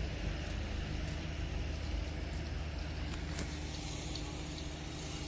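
An engine running steadily: a low, even hum with a few faint ticks over it.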